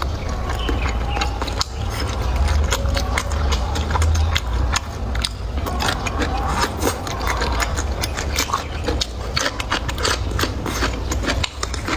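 Close-miked eating: chewing with a dense run of quick wet clicks and crunches, over a steady low hum.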